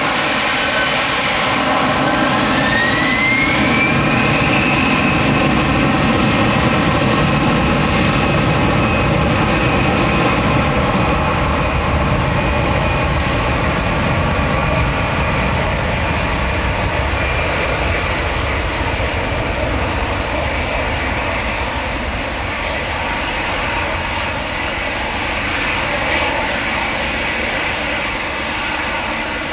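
Airbus A320-211's CFM56 jet engines spooling up: a whine rising in pitch over about three seconds, then running loud and steady with a high whine over a heavy rush of noise, easing slightly near the end.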